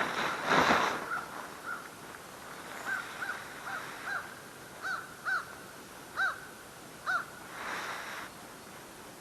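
A bird calling repeatedly, about ten short arched notes roughly two a second, with rustling of tent fabric being spread out in the first second and again near the end.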